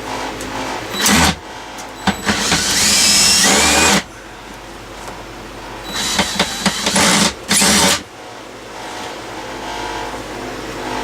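Cordless DeWalt drill-driver run in four short bursts, the longest about two seconds with a shifting squeal in it, working on the screws of a wooden cabinet.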